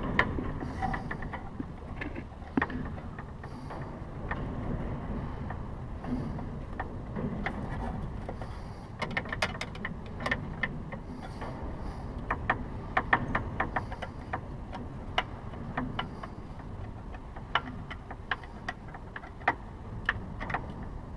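Irregular small metallic clicks and ticks, some in quick runs, from hand tools tightening a clamp on the engine's oil filter and cooler hose fittings. A low steady background hum runs underneath.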